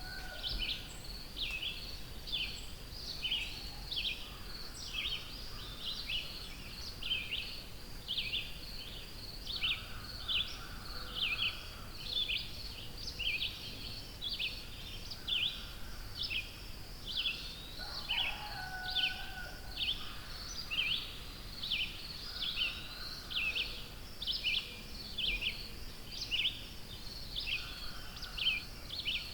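Songbirds singing in a forest: a steady stream of short, high chirps, about two a second, with a few softer, lower calls from other birds now and then.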